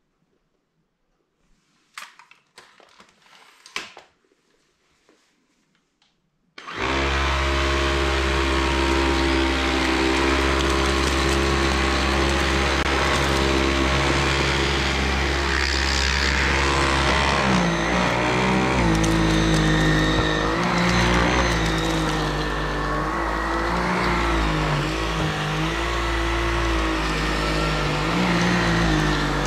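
A few soft handling clicks, then the Samsung Jet 95 cordless stick vacuum's HexaJet motor switches on abruptly and runs loudly and steadily for the rest of the time, its pitch shifting slightly now and then while it vacuums.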